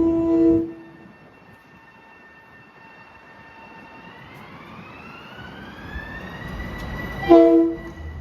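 Long Island Rail Road train horn sounding: a loud chord that cuts off about half a second in, then a short second blast near the end. Between the two, a whine rises steadily in pitch and then holds, as the train's traction motors bring it up to speed.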